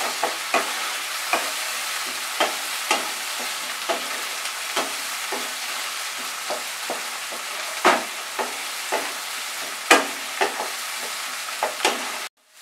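Chopped onion and tomato sizzling steadily in mustard oil in a kadai while a spatula stirs them, scraping and knocking against the pan in frequent sharp clicks. This is the tomato being stirred for a minute over fried onions. The sound drops out for a moment near the end.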